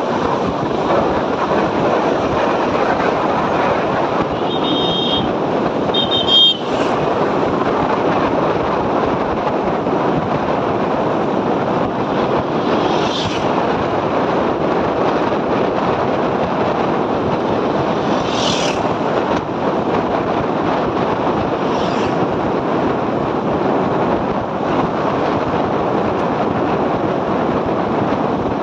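Motorcycle riding steadily, with engine and wind rush on the microphone. About five seconds in come two short high beeps, followed by a brief click.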